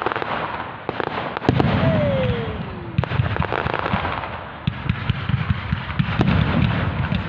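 Fireworks display going off: a dense run of bangs and crackles over a continuous low rumble. About two seconds in, one whistle falls in pitch.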